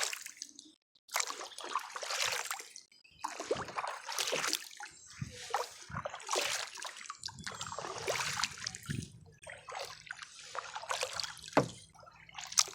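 Kayak paddle strokes: the blades dipping and pulling through the water, with splashing and dripping every second or two.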